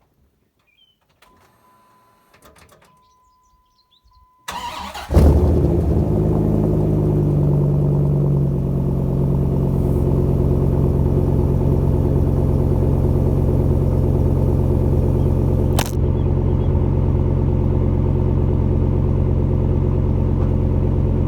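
Dodge SRT-10 V10 cold start: a steady high beep sounds for a few seconds, then the starter cranks briefly about four and a half seconds in and the engine catches. It runs at a fast cold idle that settles a little a few seconds later, then idles steadily, with one sharp click near the end.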